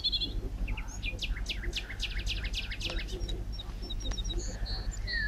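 Small birds chirping, with a fast trill of rapid, evenly repeated high notes for a couple of seconds in the middle and short high chirps around it, over a steady low rumble.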